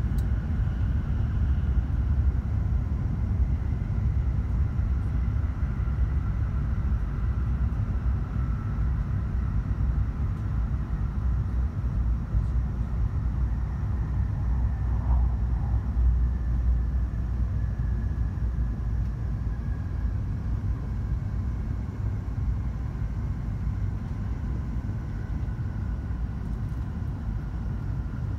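Hokuriku Shinkansen train heard from inside the passenger cabin: a steady low running rumble with a faint whine that drifts slowly down in pitch, the noise easing a little toward the end as the train slows for its station stop.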